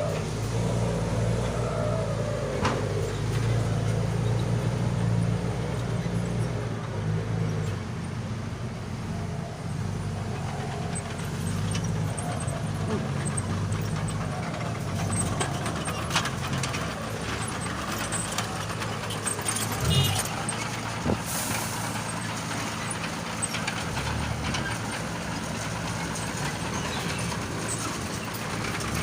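Vehicle engine running steadily through a loud aftermarket exhaust, a low-pitched drone with no revving, and a couple of brief sharp clicks about twenty seconds in.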